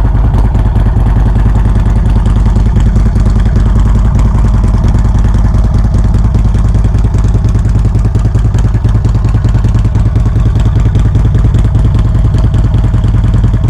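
Motorcycle engine running steadily at an even pace, a loud, low pulsing drone with no revving up or down.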